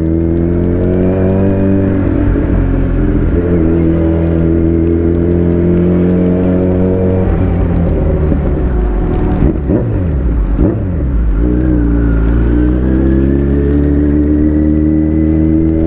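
Kawasaki Z900's inline-four engine running under way, holding a steady note, then the revs fall and climb again over a few seconds about halfway through, as in gear changes, before settling back to a steady note that creeps slightly higher near the end.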